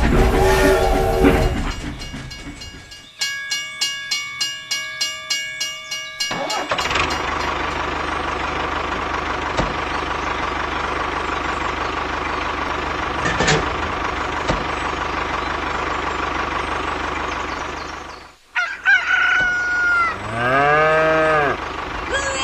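A rhythmic pulsing run of tones for a few seconds, then a steady mechanical hum for about ten seconds, then a rooster crowing near the end.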